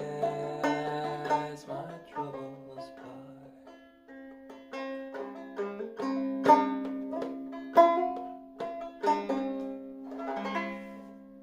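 Clawhammer banjo in open C tuning (eCGCD, tuned a little sharp) playing the closing phrase of a slow tune. It ends on a final strum about ten seconds in that rings out and fades.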